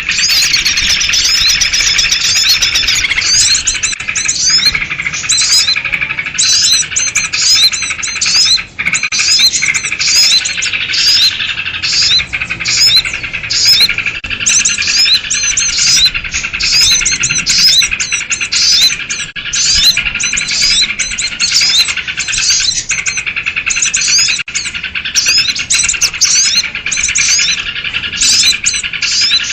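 A dense chorus of many small birds chirping and calling over one another, with sooty-headed bulbuls among them, as used in a bird-lure recording of an agitated flock. The short, quick chirps and whistles overlap without a break, apart from one brief drop near the middle.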